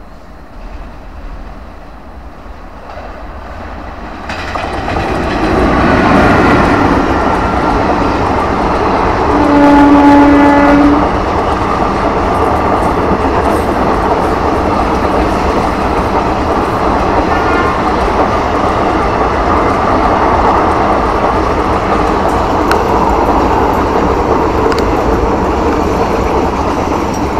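Indian Railways intercity express hauled by a WAP-4 electric locomotive passing at about 80 km/h. Its rumble builds quickly about four seconds in, and the locomotive's horn sounds one steady blast of about a second and a half, a little over a third of the way in. After that the long rake of coaches runs past with steady wheel-on-rail noise, easing slightly at the very end.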